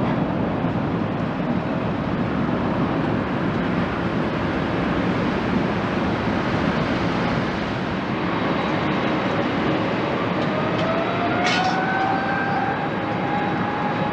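Jet airliner engines running with a steady rushing roar. About eight seconds in, a turbine whine rises in pitch and then holds steady. There is a short click a little later.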